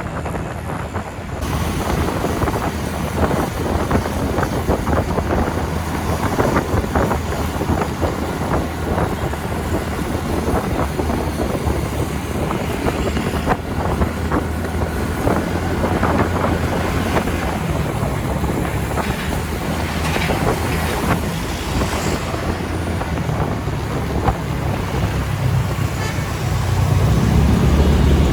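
A TVS Ntorq 125 scooter riding at speed on a highway, its engine running under steady wind rush and buffeting on the microphone, with road and traffic noise. The low rumble grows louder near the end.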